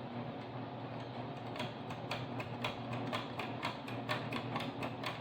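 A run of light, irregular clicks or taps, a few a second, starting about one and a half seconds in, over a low steady hum.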